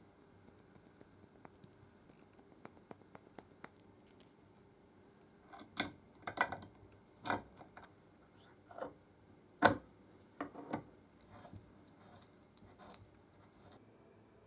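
Irregular sharp clicks and short knocks: faint light ticking in the first few seconds, then a louder scattered run of them, the loudest about ten seconds in.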